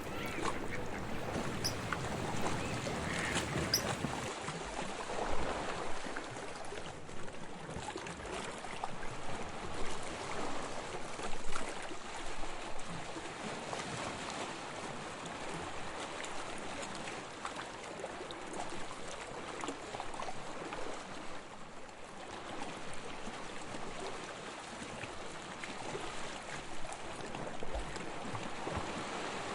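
Sea water lapping and washing at the shore, with a few louder splashes.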